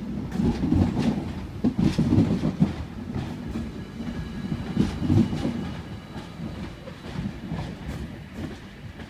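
Sydney Trains H set (OSCAR) double-deck electric train departing, its wheels clacking over rail joints and points. The rumble and clatter fade steadily as it draws away.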